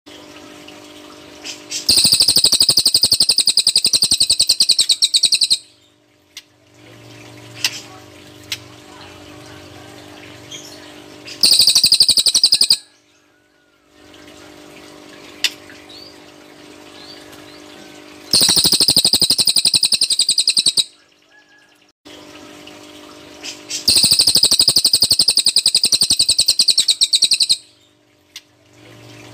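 Cililin bird singing its 'tembakan' song: four loud bursts of very rapid, high-pitched repeated notes like a machine-gun trill, each lasting a few seconds, with quieter pauses between them. A faint steady hum runs underneath.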